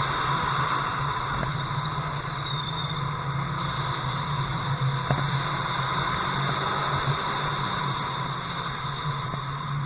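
Loud wind noise rushing over a windshield-mounted camera's microphone on a car at speed, with a steady engine drone underneath.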